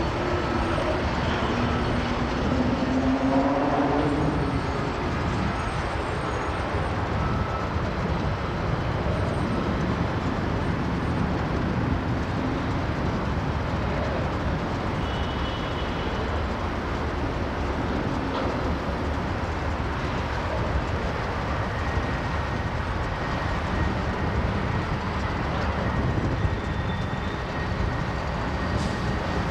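Freight train rolling past, the steady noise of its wheels on the rails.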